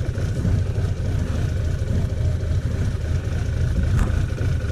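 Motorcycle engine running steadily under way: a constant low rumble with a broad rushing noise over it, and a brief click about four seconds in.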